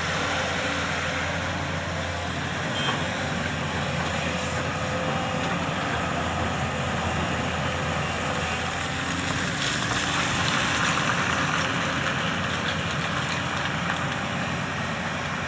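Diesel engines of a JCB excavator and a dumper truck running steadily while the dumper is loaded, swelling a little about two-thirds of the way through.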